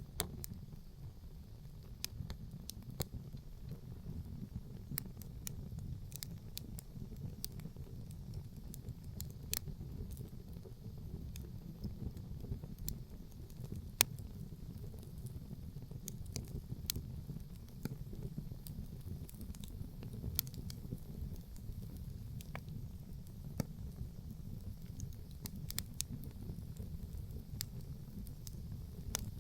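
Wood campfire crackling, with irregular sharp pops and snaps scattered throughout, one louder pop about halfway through, over a steady low rumble.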